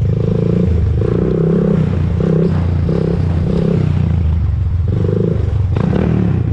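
Honda TRX400EX ATV's single-cylinder four-stroke engine running while being ridden, its note swelling and dropping in short pulses about every half second.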